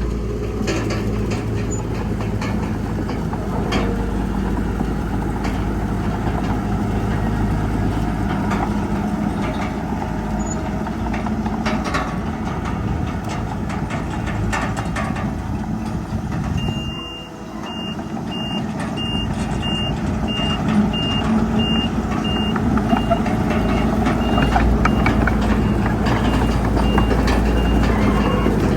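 Heavy diesel earthmoving machinery running steadily. Partway through, a reversing alarm starts beeping about twice a second and carries on more faintly to the end.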